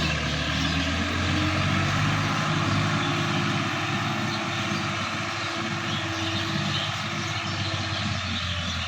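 Sonalika DI-50 RX tractor's diesel engine running steadily at an even pitch, easing slightly in loudness partway through.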